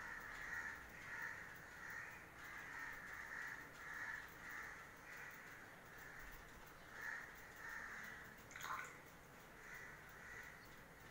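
Faint bird calls repeating over and over in the background, with one short sharp sound near the end.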